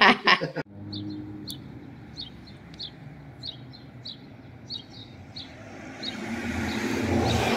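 Small bird chirping over and over, short high chirps about two a second, over a low steady traffic hiss that swells near the end as a car passes. A brief loud voice cuts off about half a second in.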